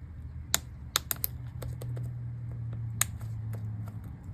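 MacBook laptop keys being pressed and snapped into place, a scatter of sharp plastic clicks, a few of them louder, over a low steady hum. The clicks are freshly refitted keycaps seating onto their clips and being test-pressed.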